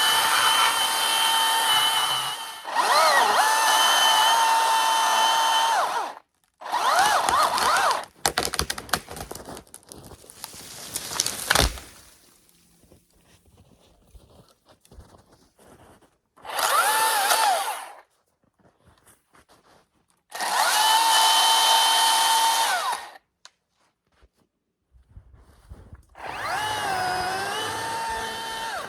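Battery-powered Milwaukee top-handle chainsaw cutting in six separate bursts of a few seconds each, its whine sagging in pitch as the chain loads up in the wood. Between the early bursts comes a run of crackling that builds to one sharp crash about a third of the way through.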